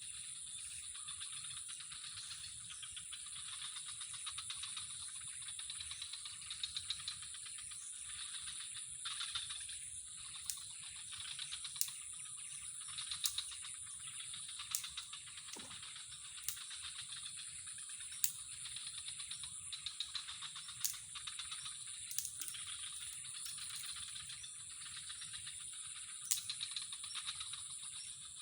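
Steady high-pitched trilling chorus, typical of night insects, with scattered sharp clicks.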